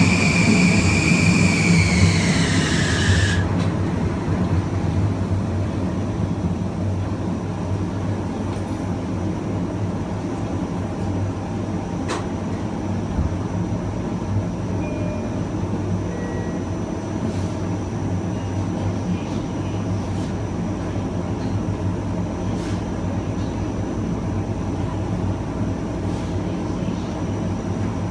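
Kawasaki M9 electric train's MELCO IGBT-VVVF inverter and AC traction motors whining, the whine falling in pitch and cutting off suddenly about three seconds in. After that the train keeps rolling with a steady rumble of running noise and a faint high steady tone.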